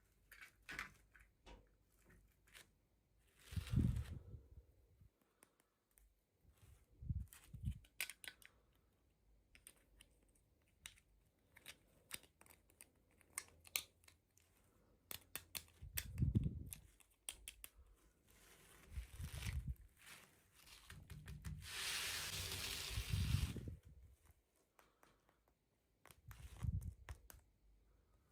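Toy packaging being handled and opened by hand: scattered clicks and taps on plastic and cardboard, several dull thumps, and a tearing rustle lasting about two seconds past the middle.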